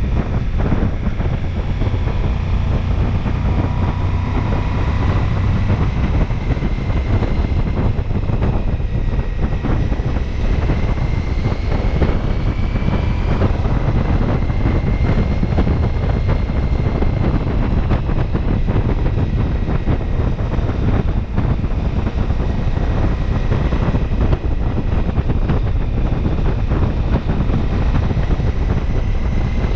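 Wind buffeting the microphone of a Ducati Multistrada V4S while it is being ridden. Under the wind the V4 engine and road noise run steadily, with faint high tones that drift slowly up and down.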